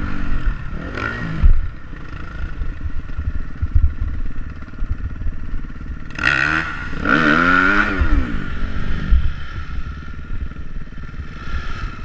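Motocross motorcycle engine running, revving up and back down twice in quick succession about halfway through.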